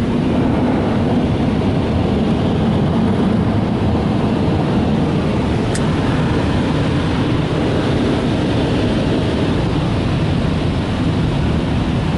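Car wash dryer blowers running steadily, an unbroken rush of air over the car heard from inside the cabin.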